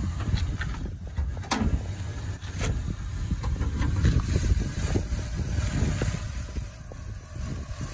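A 1966 Pontiac Catalina's 389 V8 idling, heard as a low rumble, with a sharp click about a second and a half in.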